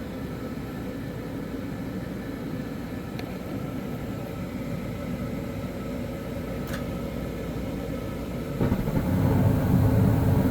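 Inducer fan motors of twinned Carrier gas furnaces running steadily, with a couple of faint clicks. About eight and a half seconds in, a louder low rush starts as the burners light on one furnace when its gas valve opens; the other furnace's gas line is still shut.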